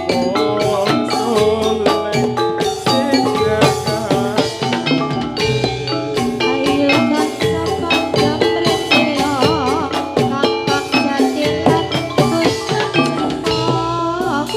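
Gamelan music accompanying a jathilan dance: metal mallet percussion playing a dense stream of struck notes over drum strokes, with a wavering high melody line coming in about two-thirds of the way through and again near the end.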